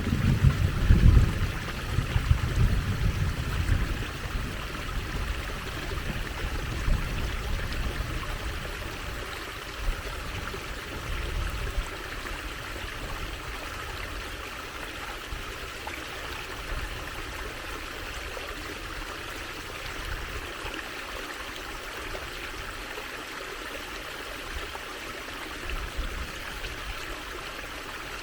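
Trickling stream water running steadily, with a louder, uneven low rumble through the first dozen seconds that then dies away.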